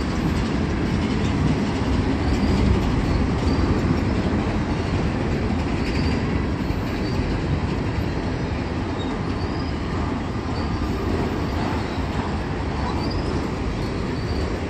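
Train rolling past on the rails: a steady rumble of wheels and cars, with faint short high squeals every second or two.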